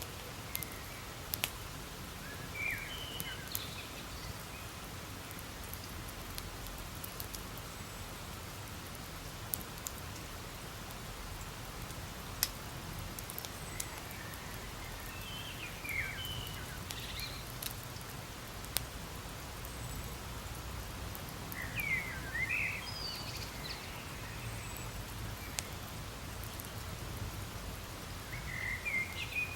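Campfire burning with a steady hiss and occasional sharp pops and crackles from the wood. Short high chirps come in a few brief bursts.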